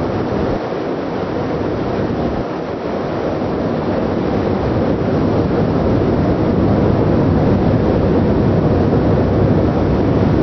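Steady, loud rush of wind over the microphone mixed with the low rumble of a ship under way at sea.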